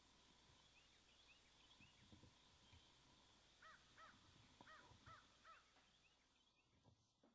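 Faint birdsong outdoors: a bird gives five short, arched calls in quick succession about halfway through, after fainter little chirps early on. The sound fades out near the end.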